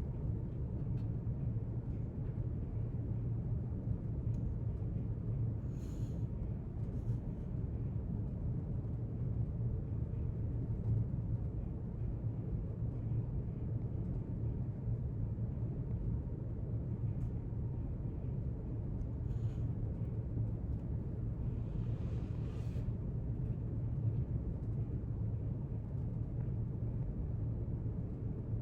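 Steady low rumble of library room ambience, with a few faint short rustles or clicks.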